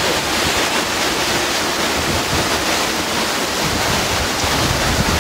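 Damaging thunderstorm winds: a loud, steady rush, with gusts buffeting the microphone in an uneven low rumble.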